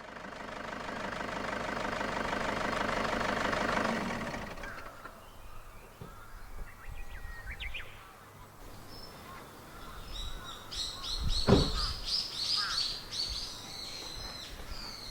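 Small birds chirping in quick, high calls, thickest in the last few seconds. A dense steady noise fades out about four seconds in, and one short loud sound stands out about eleven seconds in.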